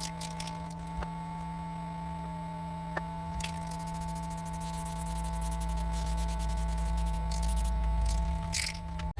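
A steady hum made of several fixed tones, with a low rumble that grows stronger in the second half and a few faint clicks.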